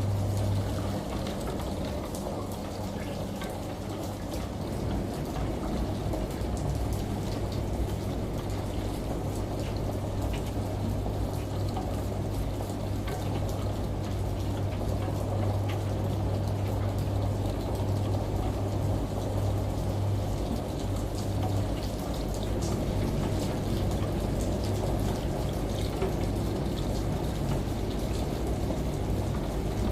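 Rain mixed with a washing machine running and a shower spraying: an even wash of water noise over a steady low hum, with scattered drop ticks.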